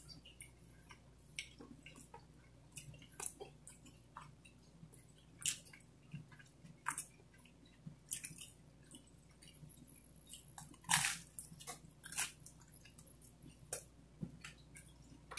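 A person chewing pizza close to the microphone: irregular clicks and smacks of the mouth, with one louder one about two-thirds of the way through.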